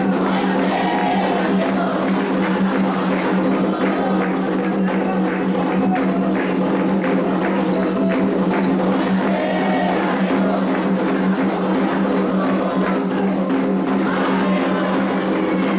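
Candomblé atabaque drums playing a continuous toque for the orixá Iansã, with voices singing over the drumming at times.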